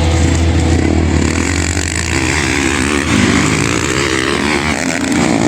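Motocross dirt bike engines revving, the pitch rising and falling.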